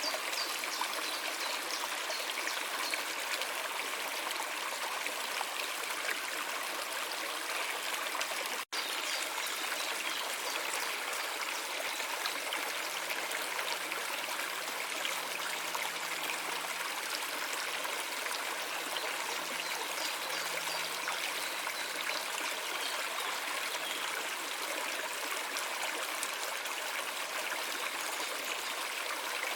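Stream water running and trickling steadily, an even rush of flowing water that drops out for an instant about nine seconds in.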